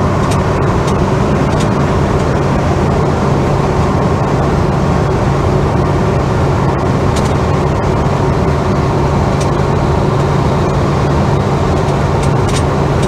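Holden HK driving at steady speed, heard from inside the cabin: a steady drone of engine and road noise with a few light clicks and rattles.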